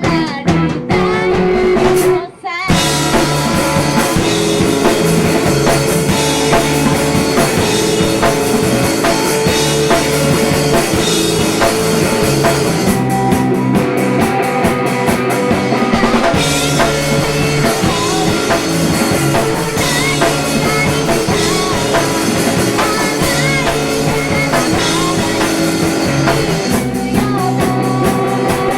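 Live indie-pop band playing a song on drum kit and guitar with a woman singing; the music breaks off for a moment about two seconds in, then the full band comes back in.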